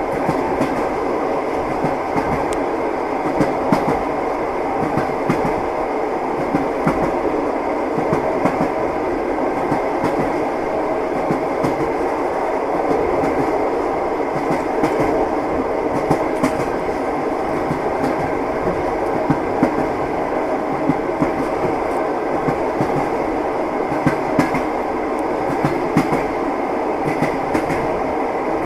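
Train wheels clacking over rail joints, over a steady running rumble of a moving train, with irregular sharp clicks throughout.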